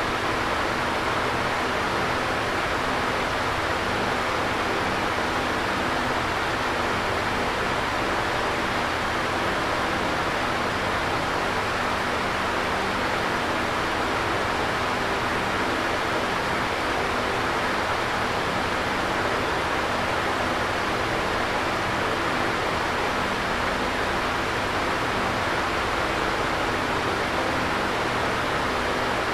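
Electric fan running steadily: an even whooshing rush of moving air with a faint motor hum underneath.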